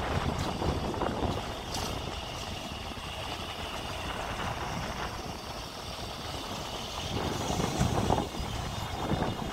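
A metro train running, a steady rumble with faint high tones, with wind gusting on the microphone.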